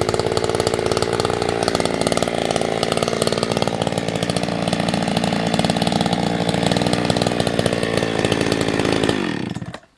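Husqvarna 365 X-Torq two-stroke chainsaw running at steady high revs, then falling in pitch and dying away about nine seconds in.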